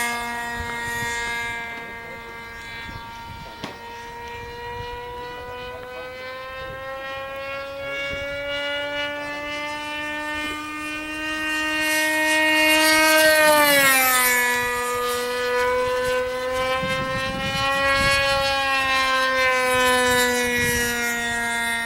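Small engine of an RC model airplane buzzing in flight, its pitch slowly rising, then dropping sharply about two-thirds of the way through and swelling again near the end.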